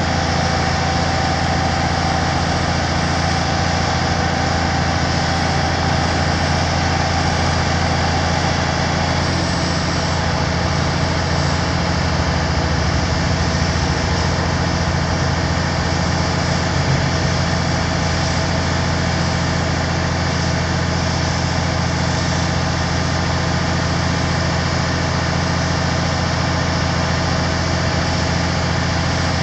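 Kenworth T300 truck's diesel engine idling steadily. A thin whine over it drops away about nine seconds in.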